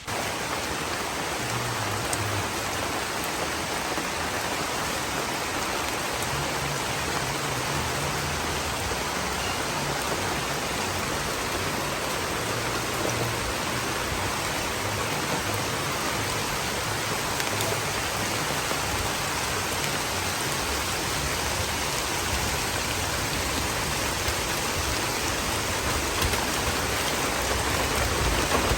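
Steady rain falling, an even unbroken hiss of rain on surfaces.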